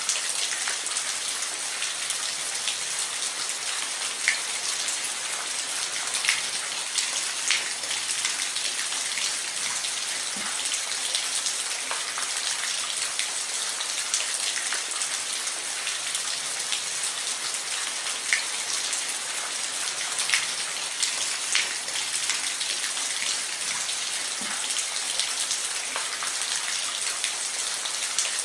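Steady rain falling on a roof: a constant high hiss with scattered louder drops ticking.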